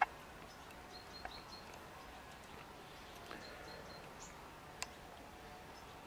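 A small bird giving a few short, faint, high chirps, a quick run about a second in and another around four seconds. A sharp click at the very start, the loudest thing, and fainter clicks later.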